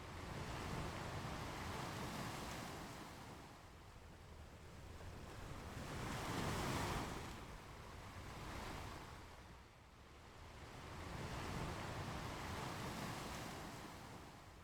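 Ocean waves breaking and washing up a beach, the surf rising and falling in slow swells every few seconds, the biggest one a little past halfway.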